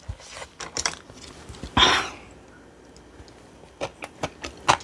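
Utensils clicking and clinking against dishes, with one louder clatter about two seconds in and a quick run of light taps near the end.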